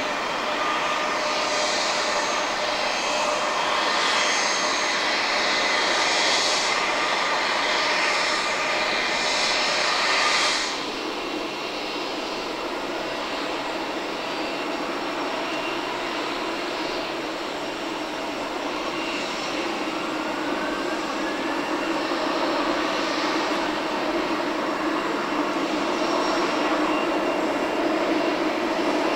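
Airbus A330-223's Pratt & Whitney PW4000 turbofans at takeoff thrust: a loud jet noise with a strong hiss that cuts off suddenly about ten seconds in, leaving a lower, duller steady engine noise.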